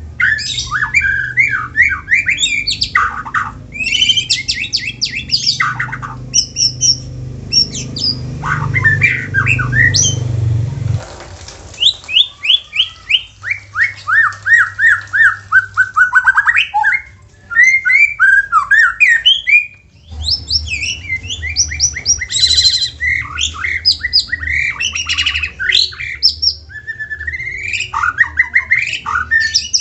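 White-rumped shama singing a loud, varied song: fast chattering runs of short notes mixed with harsh rasping calls, including a quick series of repeated falling notes midway, broken by two brief pauses. A low steady hum sits underneath for much of it.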